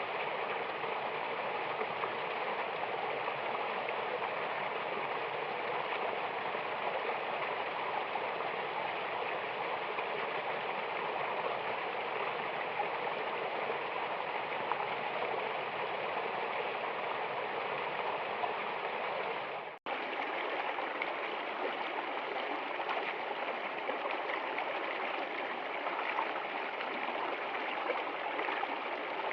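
Running water of a stream or small waterfall, a steady rushing wash. About two-thirds of the way through it cuts out for an instant and resumes slightly thinner in the bass.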